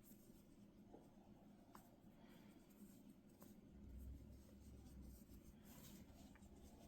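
Near silence, with faint rustling of yarn being tied into a knot by hand and a few soft ticks.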